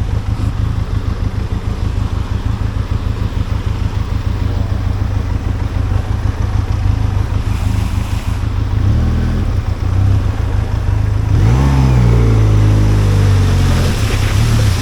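Benelli TRK 502X motorcycle's parallel-twin engine running under load on rough ground. Its revs rise and fall in several throttle surges from about eleven seconds in.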